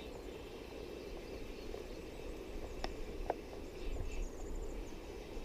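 Steady rush of the trout stream's running water, with a few faint clicks about three seconds in.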